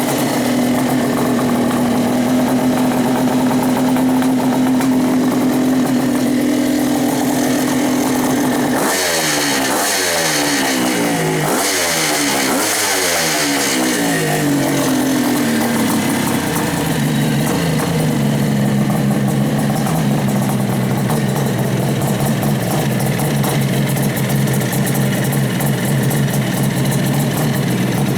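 Kawasaki H2 750 two-stroke triple engine, a ported drag engine on flat-slide Lectron carburettors in a Suzuki LT500 Quadzilla, running at a steady fast idle. About nine seconds in it is blipped several times in quick succession, then it settles back to a lower, steady idle.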